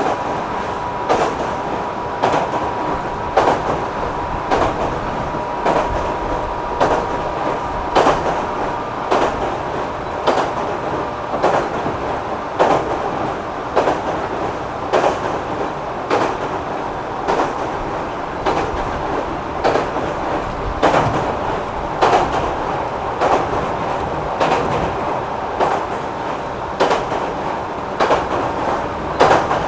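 Inside a JR 205 series electric commuter train running at steady speed between stations. The wheels click over rail joints about once a second, over a continuous rumble and a steady high tone.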